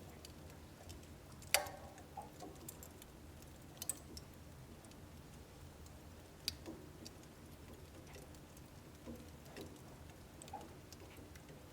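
Wood fire crackling in a home wood-burning stove: scattered, irregular sharp pops and snaps over a low steady background, the loudest pop about one and a half seconds in.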